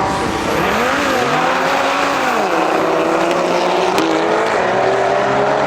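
Performance car engine revving hard: its pitch rises and drops again over the first couple of seconds, then climbs slowly and steadily.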